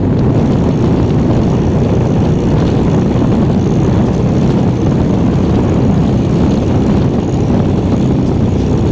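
Motorcycle riding at a steady speed: engine running under the steady rush of wind over the rider's microphone.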